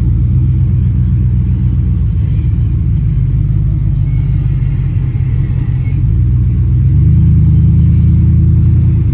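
Car engine running, heard from inside the cabin as a steady low rumble that grows louder about seven seconds in.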